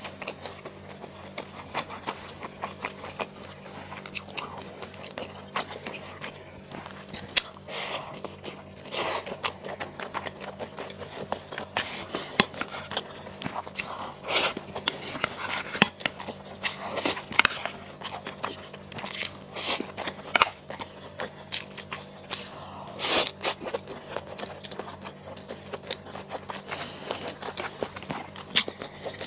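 Close-miked eating of mala xiang guo: irregular crunchy bites and chewing with wet mouth sounds.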